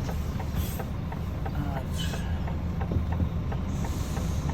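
HGV truck's diesel engine running steadily with a low rumble, with scattered light clicks and rattles and a couple of brief hisses.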